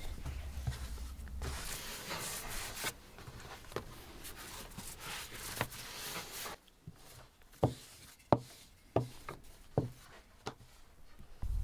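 Rustling handling noise, then about five sharp knocks a little under a second apart.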